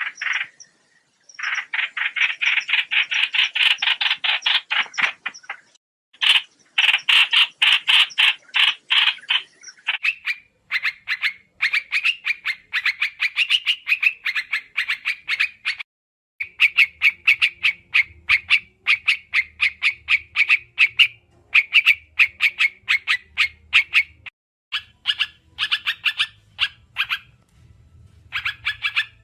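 Trao trảo bird calls played as a trapping lure: fast trains of sharp, chattering notes, several a second, in bouts of a few seconds with short breaks between them. A faint low hum sits under the calls from about halfway through.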